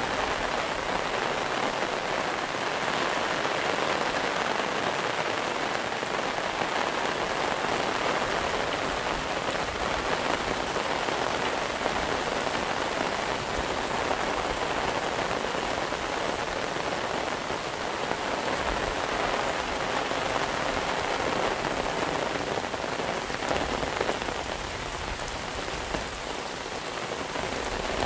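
Steady monsoon rain falling and pattering on surfaces, an even unbroken hiss.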